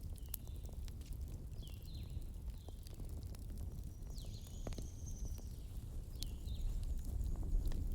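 Campfire crackling, with scattered sharp pops over a steady low rumble. Short high chirps come from birds several times, with one longer high call about halfway through.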